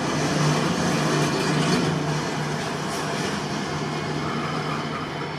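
A train running through the station: a steady low engine drone over an even rush of wheel and rail noise, easing slightly through the second half.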